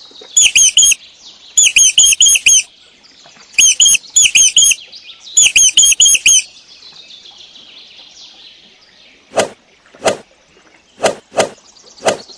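Mouse squeaking: four bursts of rapid, high-pitched squeaks, three to five quick notes each, in the first six seconds. Five short, separate taps follow in the second half.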